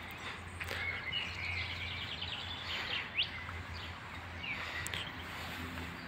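Woodland birds chirping and calling, with a short trill and a quick rising whistle, over a steady low hum.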